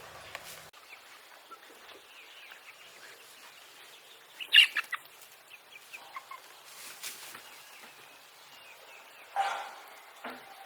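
Birds calling: faint short chirps throughout, with two louder calls, one about halfway through and one near the end.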